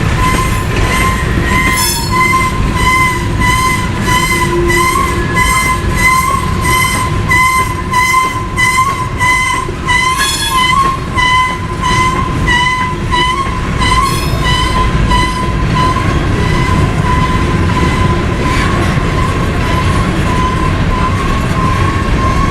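Railroad crossing bell ringing at about two strikes a second, over the low rumble of a passing train. The strikes are clearest for the first two-thirds or so.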